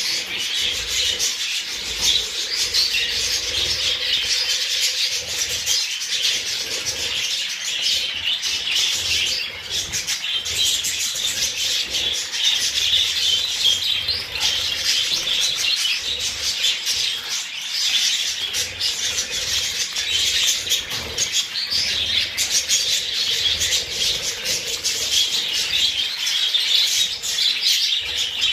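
A flock of budgerigars chattering and warbling without pause, a dense scratchy mass of chirps and clicks.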